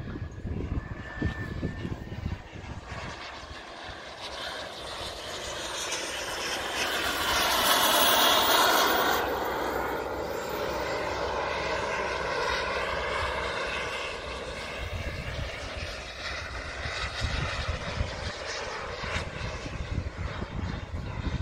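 Radio-controlled model jet flying past: its jet whine builds to its loudest about eight seconds in, then drops in pitch and fades as it moves away.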